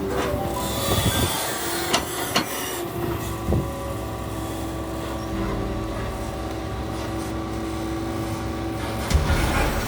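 Doosan DX220 excavator's diesel engine running steadily, with sharp metallic clanks of the bucket and tracks twice about two seconds in, once about three and a half seconds in, and a cluster of louder knocks near the end.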